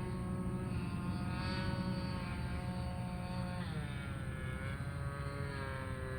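Kadet LT-55 RC model airplane's motor and propeller droning in flight; the pitch drops sharply a little past halfway through, then climbs back up over the next second or so.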